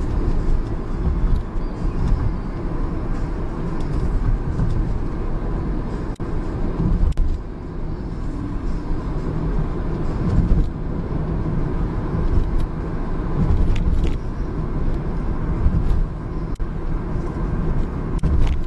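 Car on the move, heard from inside the cabin: a steady low rumble of engine and road noise, with a few faint clicks.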